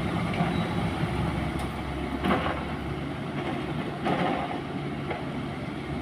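Dump truck's diesel engine running steadily, with a couple of brief knocks about two and four seconds in.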